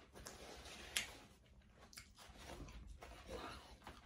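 Faint chewing of juicy yellow watermelon, with sharp wet mouth clicks about one second and two seconds in.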